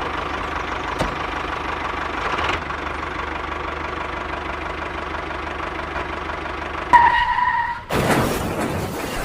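Engine running steadily with a knocking idle. About seven seconds in, a short steady horn-like tone sounds, and a loud crash-like burst follows near the end.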